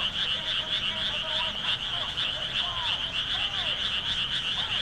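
Dense frog chorus from rice paddies: a continuous, fast-pulsing high trill from many frogs calling together. Scattered short, lower calls rise and fall in pitch over it, several of them about halfway through.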